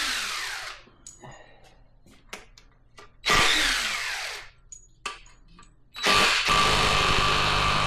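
Handheld power driver spinning front-cover studs out of a Ford 5.4 V8 block, in two short bursts that wind down in pitch, with small metallic clicks between them. About six seconds in the tool starts again and runs steadily.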